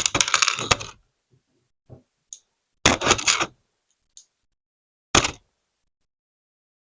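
LEGO toy cars and bricks clattering in three short bursts of rattling plastic clicks. The first burst, at the start, is the longest.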